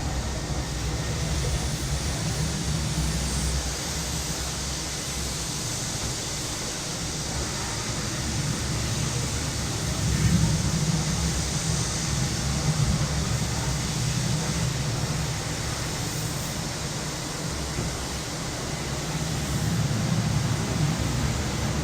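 Summer cicadas giving a steady high hiss over the low rumble of city traffic, which swells about ten seconds in and again near the end as vehicles pass.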